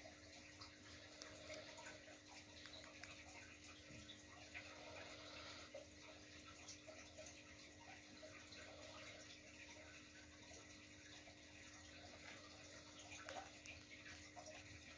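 Near silence: faint room tone with a steady low hum and scattered faint clicks.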